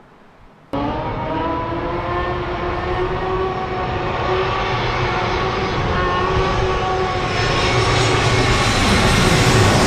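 A jet airliner's engines, starting abruptly about a second in: a loud rush with a steady multi-tone whine, growing louder toward the end.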